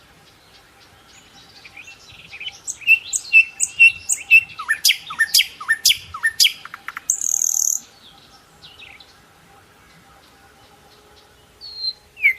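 A songbird singing: a run of short, evenly spaced chirps, then a quick series of sweeping notes and a brief high buzz, followed by two single calls near the end.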